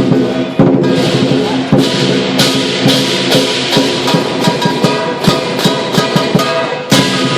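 Chinese lion dance music: loud drum and cymbal strikes, roughly two a second, over sustained pitched tones.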